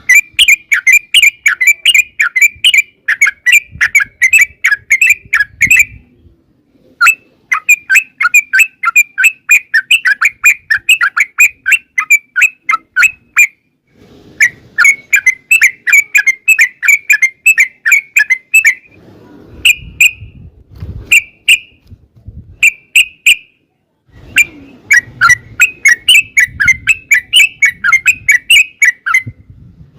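Yellow-vented bulbul (trucukan) singing long, fast chattering runs of quick repeated notes. The runs last several seconds with brief pauses between them, and a few short single calls come about two-thirds of the way through.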